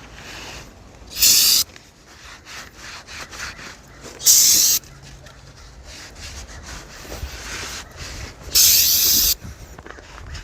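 Three short bursts of aerosol spray from a can of carb cleaner, about a second in, about four seconds in and near the end, with a rag or pad rubbing on metal between them.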